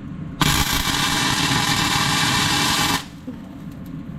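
Arc welder laying tack welds on steel: a steady sizzle for about two and a half seconds that cuts off suddenly, then a second, shorter burst just before the end.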